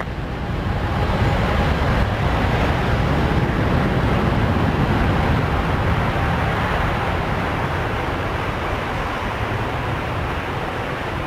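Jet airliner engine noise as an aircraft passes on the runway: a steady rushing rumble that peaks about two seconds in, then slowly fades.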